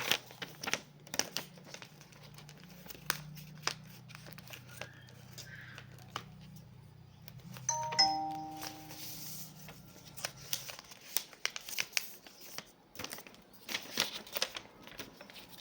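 A sheet of paper being folded and creased by hand into a paper airplane: rustling and sharp crinkly crackles throughout. About halfway through, a short chime of a few steady tones rings out, the loudest sound.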